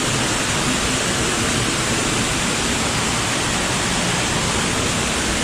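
Underground waterfall and cave stream rushing, a loud steady roar of falling water.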